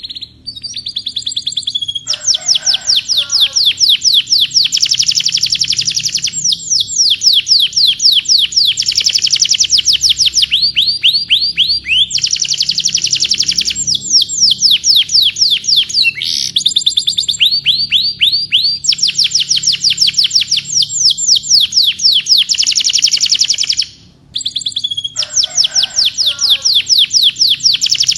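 Domestic canary singing a long, loud song of rapid trills, each a fast run of repeated high notes, phrase after phrase with hardly a break and one short pause near the end.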